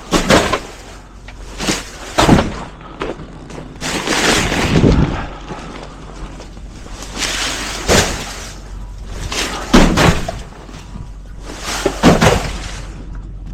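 A series of loud bangs, thuds and crashes, roughly every one to two seconds, with rumbling noise between them.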